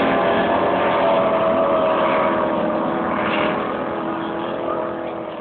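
Racing powerboat engine running at speed, a steady drone that fades as the boat moves away, its pitch sinking slightly.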